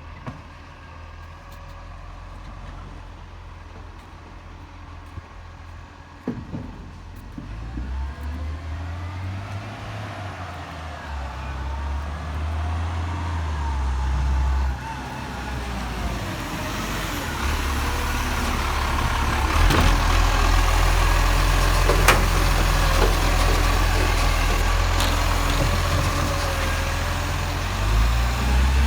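Garbage truck engine running, a low rumble that grows steadily louder, with a whine that rises and falls in pitch and a couple of sharp clunks.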